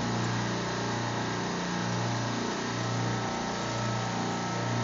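Supermarket refrigeration rack's compressors running: a steady mechanical hum with a low drone that swells and dips about once a second.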